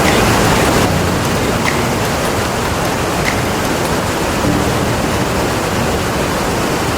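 Iguazu Falls: a huge waterfall's steady rushing noise of falling water.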